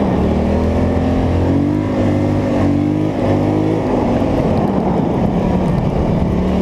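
Polaris Scrambler 850 ATV's twin-cylinder engine running while riding, its pitch rising and falling several times with the throttle.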